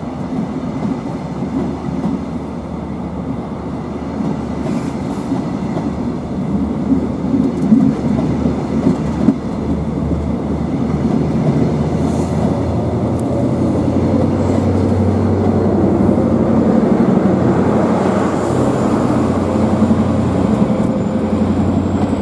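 High Speed Train pulling away: the Mark 3 coaches roll past with wheels clacking over the rail joints. Then, in the last third, the diesel engine of the rear Class 43 power car swells into a louder, steady drone as it passes and draws away, with a faint high whine near the end.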